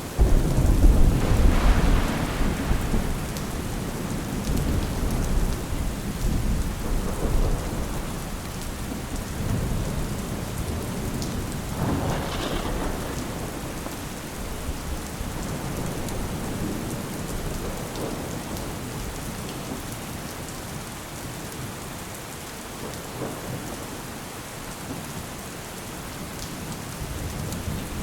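Steady rain with rolling thunder. A loud low rumble of thunder breaks at the start and dies away slowly over the next several seconds, and a second, sharper peal comes about twelve seconds in.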